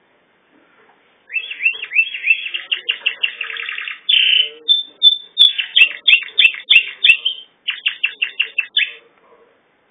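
Domestic canary singing one long song phrase of rapid trills, repeated swept notes and a held tone. It starts about a second in and stops shortly before the end. A few sharp clicks fall in the middle of the phrase.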